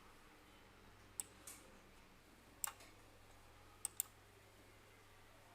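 A few sharp computer mouse clicks, two of them close together like a double-click near the end, over a faint steady low hum.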